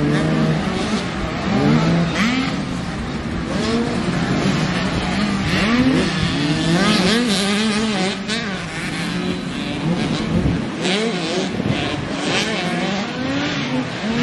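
Several motocross dirt bikes racing, their engines revving up and down over and over as they work around the track, many bikes overlapping.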